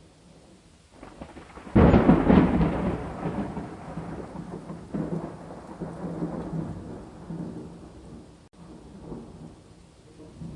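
A thunderclap breaks out suddenly about two seconds in and rolls away in a long rumble over several seconds, with a smaller rumble near the end, over a steady patter of rain.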